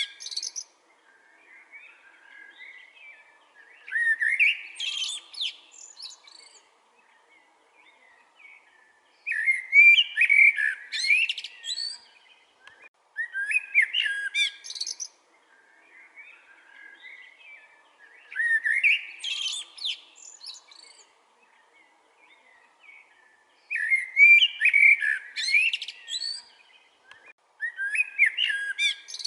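Eurasian blackbird singing: loud, fluting warbled phrases of about two seconds each, every four to five seconds, many ending in a high squeaky twitter, with softer twittering in the pauses between.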